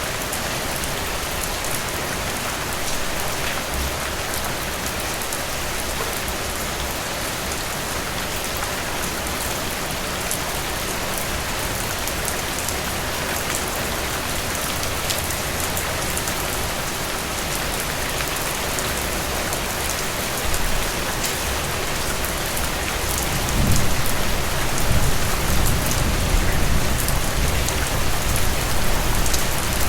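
Steady rain falling, an even hiss with scattered drop ticks. About two-thirds of the way through, a low rumble rises beneath it and the whole sound grows a little louder.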